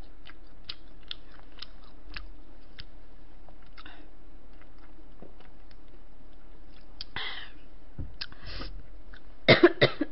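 Close-up chewing and gnawing of beef off a short rib bone: a run of small wet clicks and smacks, then gulps from a drink bottle about seven seconds in, and a few sharp loud bursts from the mouth just before the end.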